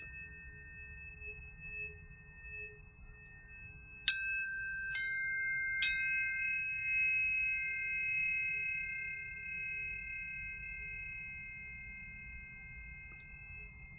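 Planetary tuning forks struck three times in quick succession about four seconds in, each with a brief bright clang at the strike and then ringing on as pure steady tones that slowly fade; fainter tones from earlier strikes hang on at the start.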